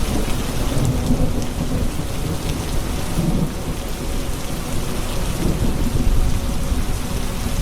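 Steady heavy rain with rolling thunder: a dense patter of rain over a low rumble that swells several times.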